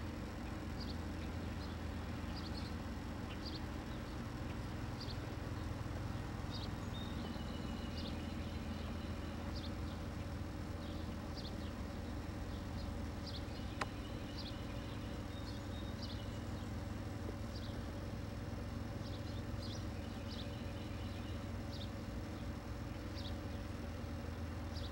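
Birds chirping in short, high calls repeated irregularly over a steady low hum. There is a single sharp click about fourteen seconds in.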